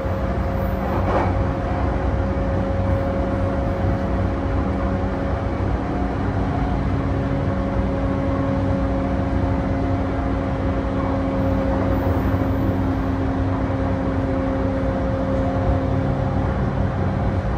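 Interior running noise of a JR E235-1000 series electric train at steady speed: continuous wheel-and-rail rumble with a steady hum held at one pitch.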